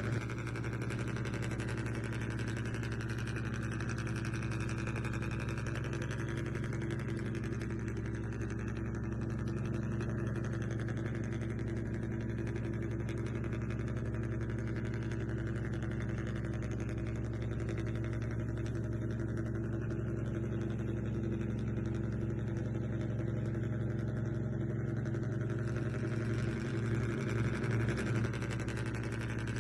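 Small motor running steadily, a constant even hum that does not change in pitch.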